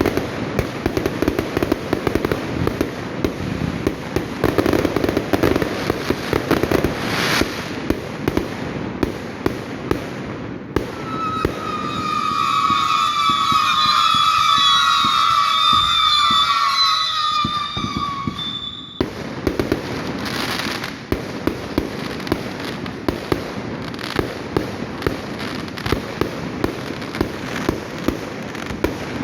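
Fireworks going off in a dense barrage of rapid crackling pops and bangs. In the middle a loud whistle of several wavering tones rises over the crackle for about eight seconds, then cuts off suddenly.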